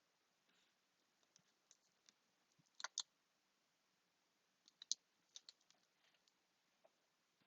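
Faint scattered clicks and taps of hands handling small craft pieces and tape, loudest as a double click about three seconds in and a short cluster about five seconds in.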